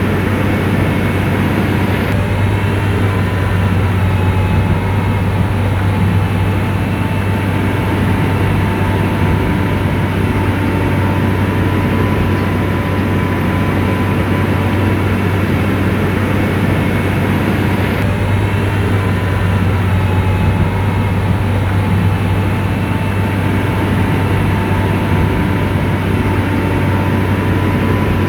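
Komatsu bulldozer's diesel engine running steadily under work: a loud, deep, even hum with a thin steady whine above it.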